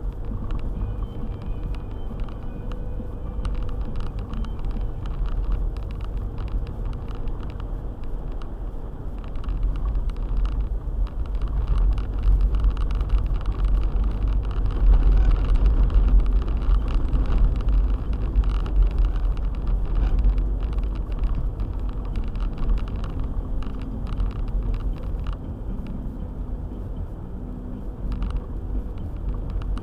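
Steady low rumble of a four-wheel-drive car driving, its engine and road noise swelling somewhat in the middle.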